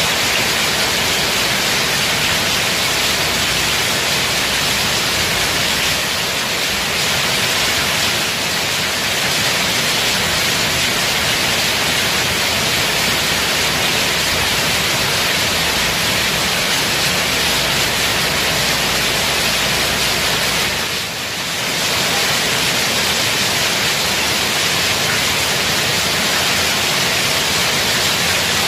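Heavy rain pouring down, a steady, even hiss that dips briefly about three-quarters of the way through.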